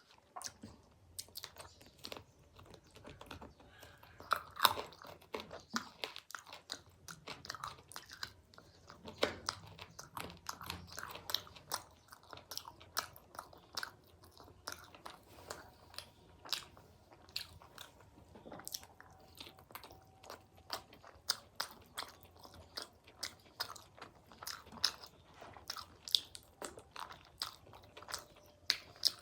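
A person eating: steady chewing and biting with many short, irregular crunches.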